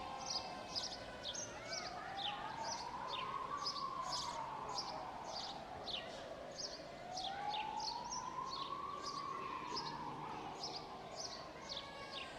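A siren wailing, its pitch slowly rising and falling in long sweeps about every five seconds, over steady chirping of small birds.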